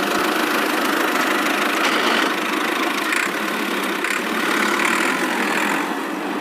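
A motor running steadily with a dense mechanical hum, a little quieter near the end.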